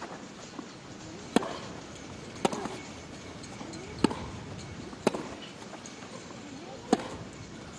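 Tennis rally: a racket striking the ball five times, one sharp crack every one to two seconds as the ball is hit back and forth.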